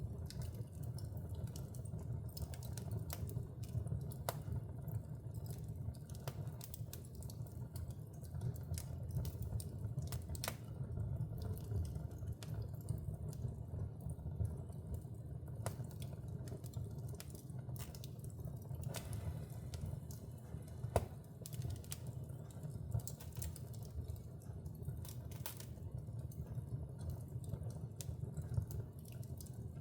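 Fire burning in a fireplace: a steady low rumble of flames with scattered small crackles and pops, one louder pop about 21 seconds in.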